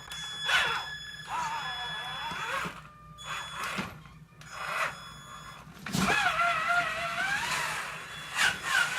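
Electric motor of a radio-controlled truck whining, its pitch rising and falling with the throttle. A few sharp knocks come from the truck bumping over obstacles, the loudest about six seconds in.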